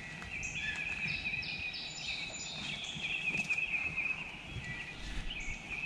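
Several songbirds singing at once: one continuous warbling song, with short, high, slurred whistles repeated three times about a second in and scattered chirps throughout.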